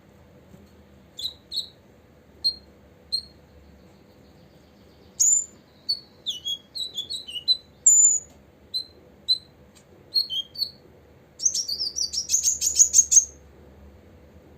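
Copper-throated sunbird calling: short, high chip notes given singly and in small clusters, then a rapid chattering trill of quick rising notes near the end.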